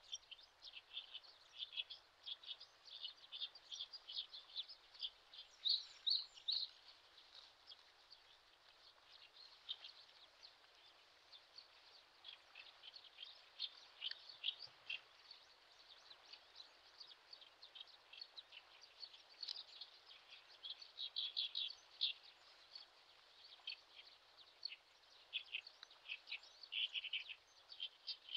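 Small birds chirping: many short, high chirps in irregular clusters, some faster runs near the middle and near the end, over a faint steady hiss.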